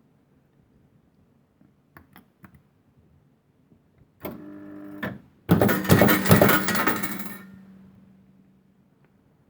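A Funworld Stars & Stripes fruit machine paying out: a short electric buzz about four seconds in, then a loud clatter of pennies dropping into the payout tray for about two seconds, fading into a low hum. A few light clicks come before it.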